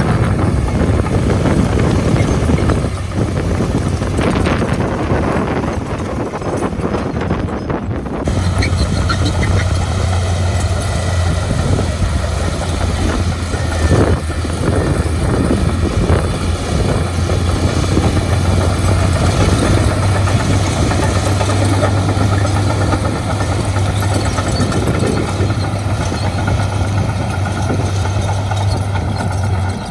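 Heavy diesel engine of construction machinery running steadily, with a strong low hum. The sound changes abruptly about eight seconds in.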